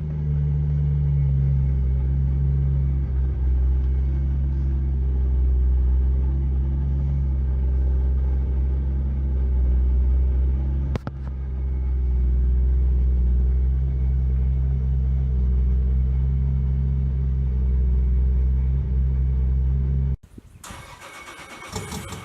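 Turbocharged Toyota Supra engine idling steadily just after a cold start that needed long cranking on E85 fuel. There is a brief click about eleven seconds in, and the engine sound cuts off abruptly near the end.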